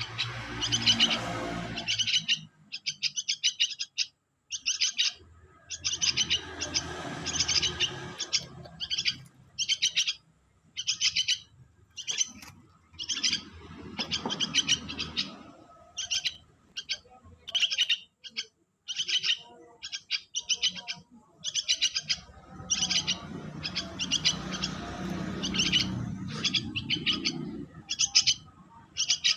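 Kerucuk (karuang jambul) songbird giving short bursts of high, rapid chirps, about one burst a second, again and again. Low background rumble comes and goes.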